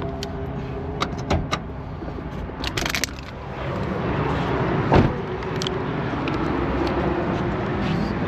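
A car engine running steadily under light clicks and rattles, with one sharp knock about five seconds in.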